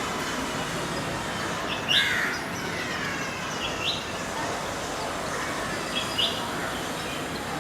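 Small bird giving short high chirps, a few times about two seconds apart, the loudest about two seconds in, over a steady background hiss of outdoor noise.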